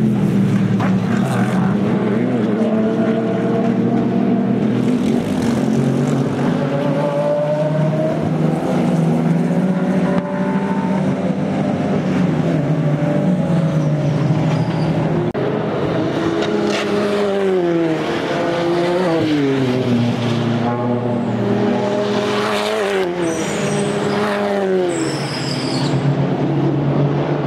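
Race cars with open exhausts passing at full volume, their engines running loudly throughout. The engine note falls and climbs again several times in the second half as the cars change gear.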